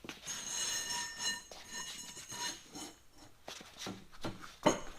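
Steel pipe rollers knocked against each other and against the machine base: a metallic clank that rings on for about two seconds, then a few sharp knocks near the end.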